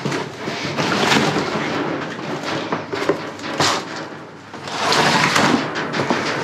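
Bags and loose trash rustling and crackling as a dumpster's contents are rummaged through, in two long stretches with a short lull between them.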